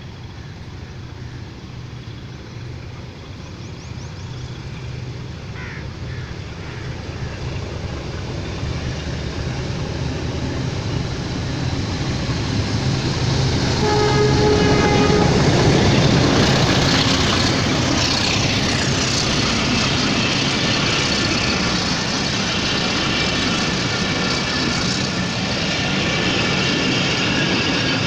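Diesel locomotive (HBU20) hauling a passenger train: its engine drone grows steadily louder as it approaches, and it sounds one short horn note about halfway through as it draws level. Then the engine passes and the coaches roll by with a loud, steady rush of wheel and rail noise.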